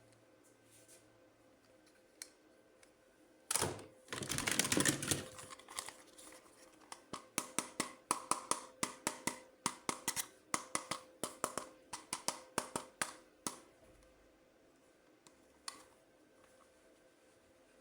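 Plastic toys and packaging being handled: a short burst of rustling about four seconds in, then a long run of quick, sharp plastic clicks, a few each second, that stops about two-thirds of the way through.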